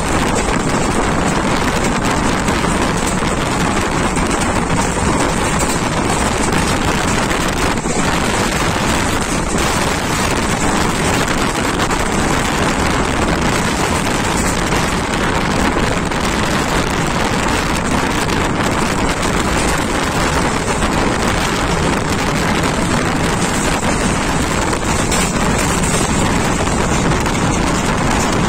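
Steady rushing noise of a passenger train running at speed, heard from on board, with wind buffeting the microphone.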